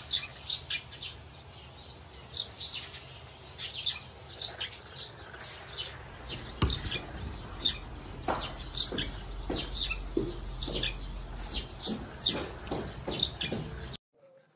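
Small birds chirping and tweeting in quick, repeated high calls, with a dull knock about six and a half seconds in and a low rumble for a few seconds after it.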